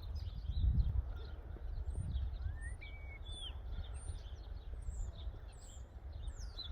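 Small birds chirping and whistling in many short calls, over a low uneven rumble of wind on the microphone that is strongest about a second in.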